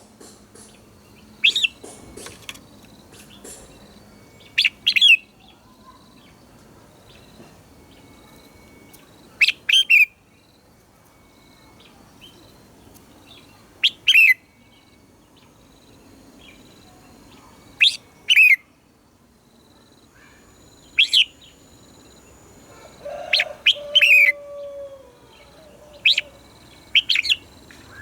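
Red-whiskered bulbul song: short, loud, sharp notes every few seconds, often two in quick succession. Fainter bird calls run behind them.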